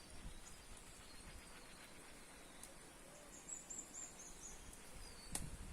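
Faint, very high twittering chirps of small birds, a quick run of short notes about three and a half seconds in, over quiet rural background noise; a single sharp click near the end.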